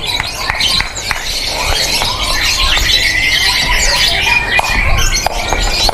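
Several caged lovebirds chattering and singing at once: a dense, unbroken run of high trills, chirps and squawks.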